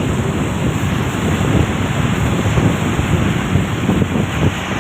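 Strong wind buffeting the microphone, with a low rumble of road traffic underneath.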